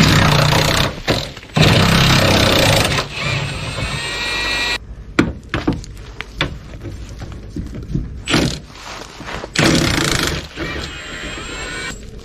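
Power tool running in several bursts of a few seconds each, its motor whine rising and falling, with clunks of metal parts in between: the bumper mounting nuts being worked loose.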